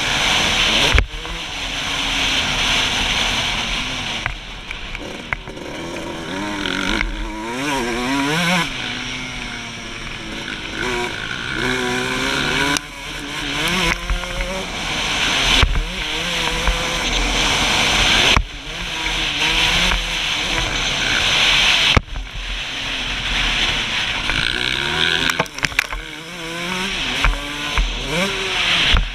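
2003 Suzuki RM125's 125 cc two-stroke single-cylinder engine revving hard under race riding, its pitch climbing and falling again and again, with several abrupt drops where the revs cut off.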